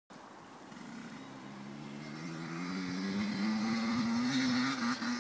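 Motocross bike engine running at a distance, its pitch rising steadily over the first few seconds and then holding, getting louder throughout.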